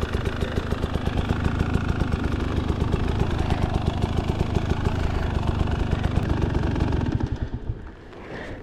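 KTM two-stroke enduro dirt bike engine running steadily at low revs with a fast, even firing rattle. It cuts out about seven and a half seconds in.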